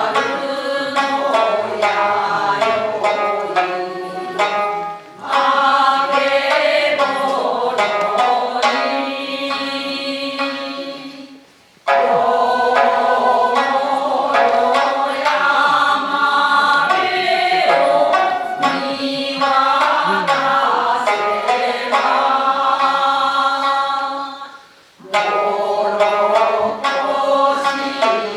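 Group singing a Japanese folk song (min'yō) with shamisen and shakuhachi accompaniment, sung in phrases with short pauses about five, twelve and twenty-five seconds in.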